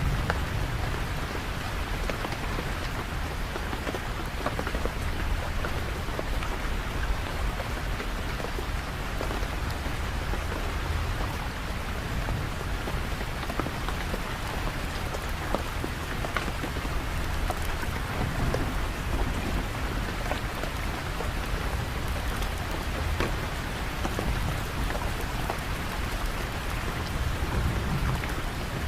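Steady, heavy rain falling on surfaces, a dense even hiss with many fine drop impacts, over a low rumble that swells a few times.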